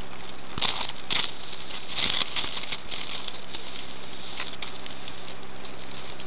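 A few irregular crunching footsteps on gravel rail ballast in the first couple of seconds, over a steady hiss.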